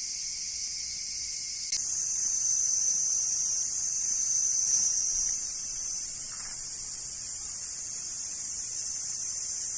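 Steady, high-pitched chorus of summer insects. It changes abruptly just under two seconds in, after which one shrill tone stands out and then fades about six seconds in.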